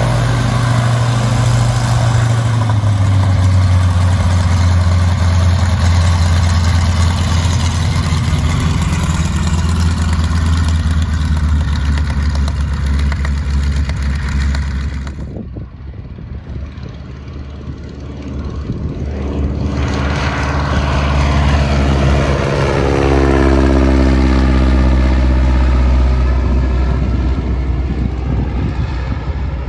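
1943 Boeing Stearman biplane's radial engine droning loudly in flight. It turns fainter for a few seconds about halfway through, then comes back up with its pitch sliding down as the plane passes.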